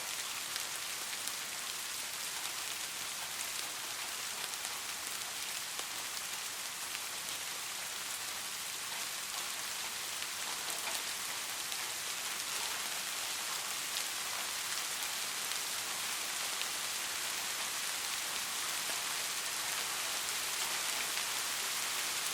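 Steady rain falling on a street, an even hiss made of many small drop ticks.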